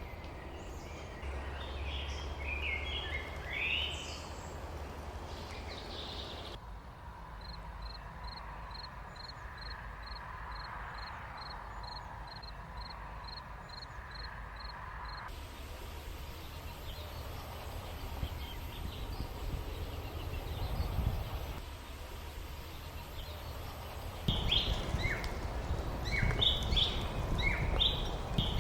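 Small birds chirping and twittering over a steady low rumble. In the middle stretch the chorus drops away to one bird repeating a single short high note about twice a second. The background changes abruptly a few times.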